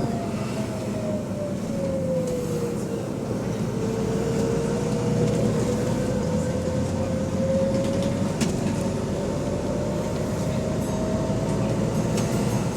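Double-decker bus running, heard from on board: a low engine hum under a drivetrain whine that falls in pitch as the bus slows, then climbs slowly as it picks up speed. A couple of sharp rattles come near the end. The bus has an exhaust leak.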